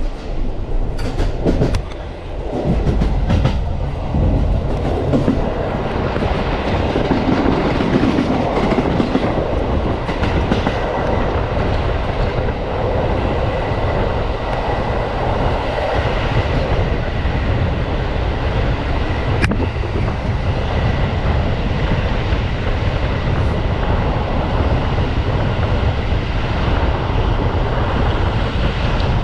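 Passenger coach of a moving train running over the rails: a steady loud rumble of wheels on track, with a few clacks of wheels over the rail joints in the first couple of seconds and one sharp click about nineteen seconds in.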